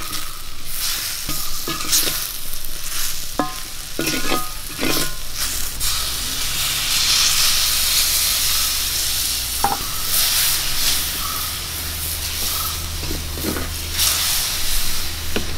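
Onion-tomato masala sizzling in a hot pan while a spatula scrapes and stirs it, with scattered short knocks. About six seconds in, water poured into the hot pan sets off a louder hissing sizzle for a few seconds, then the stirring and scraping resume.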